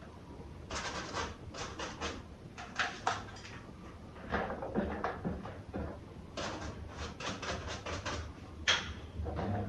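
Irregular clicks, taps and scrapes of small parts and tools being handled, in clusters with short pauses, the sharpest knock near the end.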